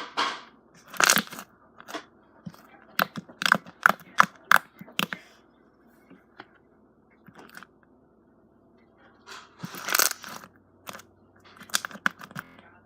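Slime being squeezed and worked by hand, giving irregular sticky clicks and pops, with a longer squelch about ten seconds in.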